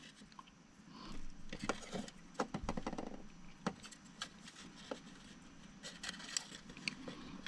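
Light, scattered clicks and scrapes of small parts being handled: a 3 mm LED being prodded into place in a model locomotive shell.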